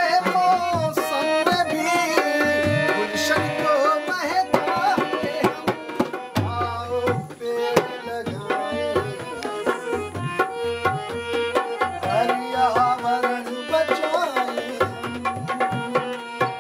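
Harmonium playing a sustained, ornamented melody over a steady rhythm of low hand-drum strokes: the instrumental opening of a Hindi song.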